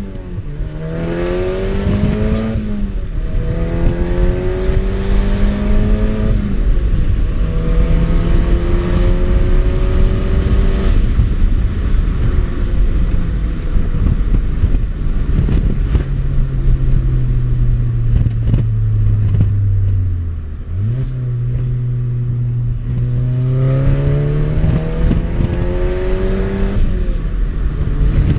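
Volkswagen Golf Mk6 R's turbocharged four-cylinder engine, breathing through an ARMYTRIX aftermarket exhaust, accelerating up through the gears. The note climbs in pitch and drops back at each upshift, three times in the first eleven seconds. It then settles to a low steady drone for several seconds before climbing through the gears again near the end.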